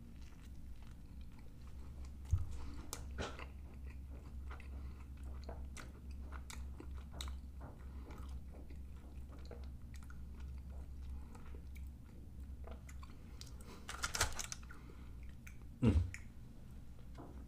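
Close-up chewing and biting of a chili hot dog in a soft bun: quiet wet mouth sounds and scattered small clicks over a low steady hum. A sharp knock comes a couple of seconds in, and two louder sounds come near the end, the last one short with a falling pitch.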